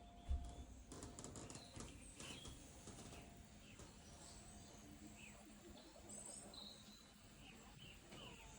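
Faint bird chirps, short and scattered, over a quiet background. A single low thump comes about a third of a second in.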